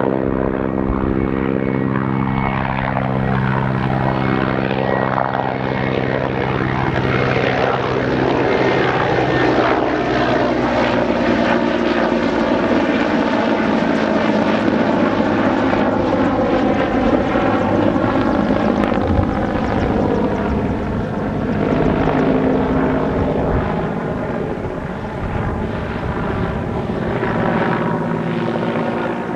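Helicopter flying past at an air display, its rotor and turbine sound loud and continuous. The steady low rotor tones fall in pitch in the first few seconds, then give way to a rushing sound that sweeps and wavers through the middle as the machine passes close, easing a little toward the end.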